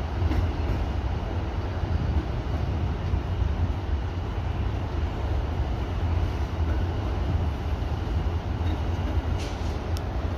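CN freight train rolling past, a steady low rumble of its cars on the rails.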